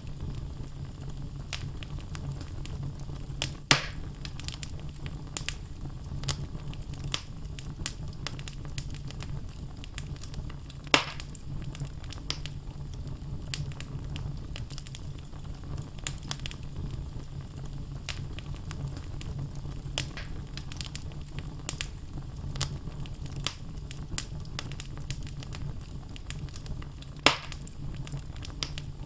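Wood fire burning in a fireplace: a steady low rumble of flame with frequent small crackles of the logs, and three loud sharp pops, about 4 s in, about 11 s in and near the end.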